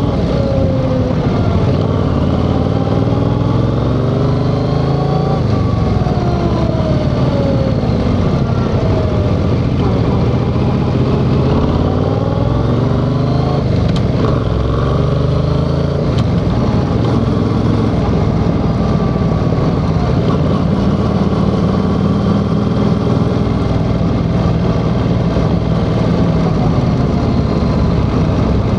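Yamaha XSR700's parallel-twin engine pulling through the gears while ridden, its pitch rising and dropping back several times in the first half, then running at a steadier pitch.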